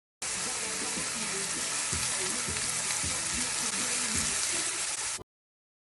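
Food sizzling as it fries in a pot while salt mackerel rundown is cooked, a steady crackling hiss. It starts suddenly and cuts off abruptly about five seconds later.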